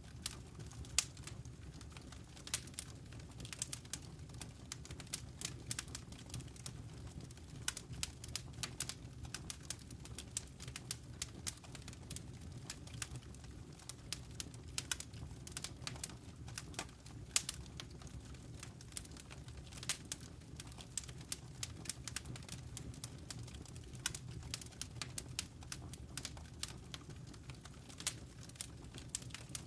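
Wood fire crackling in a fireplace: irregular sharp crackles and pops, several a second, over a steady low rumble.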